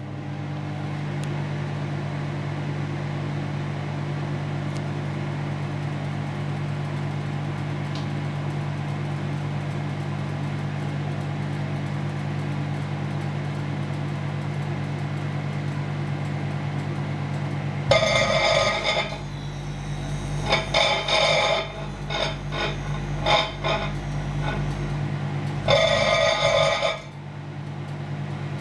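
Microwave oven running with a steady hum. About eighteen seconds in, the plasma glowing inside the oven sets off a loud, buzzing crackle that comes in irregular bursts for about nine seconds, the last long burst cutting off suddenly.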